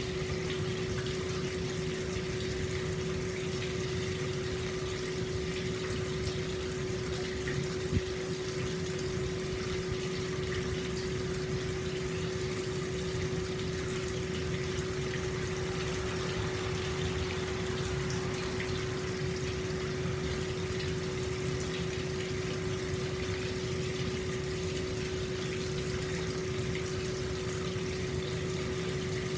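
Hot spring water pouring steadily into an open-air bath, with a steady low hum beneath it. A single faint click about eight seconds in.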